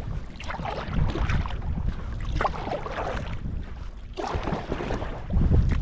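Kayak paddle strokes splashing in the water every second or so, with wind rumbling on the microphone.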